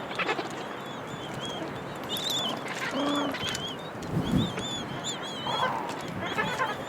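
Penguin colony calling: many short, overlapping squawks and honks, with a lower braying call about three seconds in.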